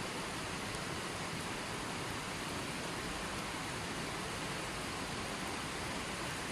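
Running water flowing in a steady, even rush with no breaks.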